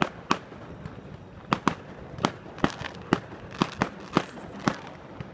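Aerial fireworks bursting in a rapid, uneven series of sharp bangs, more than a dozen in quick succession.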